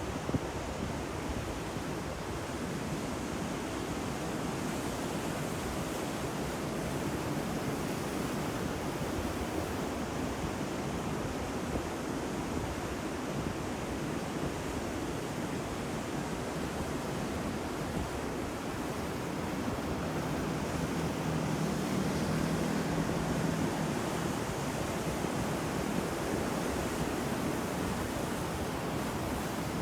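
Ocean surf: waves breaking and washing in a continuous roar, swelling a little past the middle.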